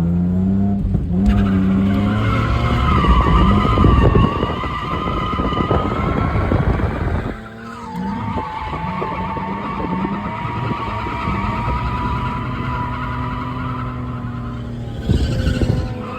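Ford BA Falcon drifting: its straight-six engine revs up, then the rear tyres squeal in a long held tone. The squeal breaks off briefly about seven seconds in, then comes back for around seven seconds more.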